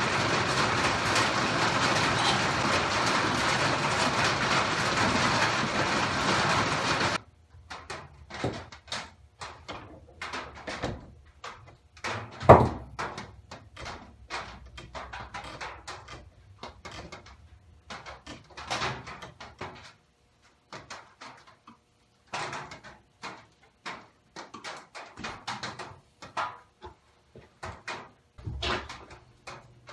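A loud, steady rushing hiss that cuts off suddenly about seven seconds in. It is followed by scattered clicks and knocks of motorcycle fork and shock parts being handled during cleaning, with one sharper knock a few seconds later.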